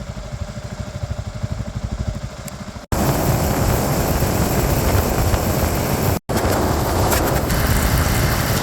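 Motorcycle single-cylinder engine idling with an even, fast pulse. It cuts off abruptly about three seconds in and gives way to a louder, steady rush of wind and road noise over the engine, as when riding at speed, broken by a brief dropout about six seconds in.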